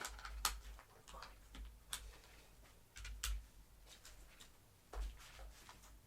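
Irregular light clicks and knocks, several a second at times, with soft low thumps: plastic parts of a vacuum cleaner being handled during disassembly.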